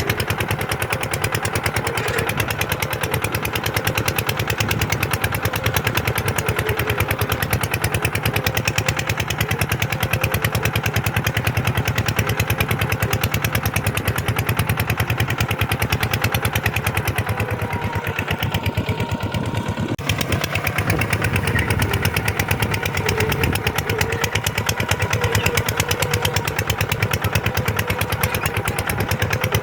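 Kubota tractor's diesel engine running steadily with a rapid, even clatter of firing pulses while pulling a plow through sand, easing slightly around two-thirds of the way in.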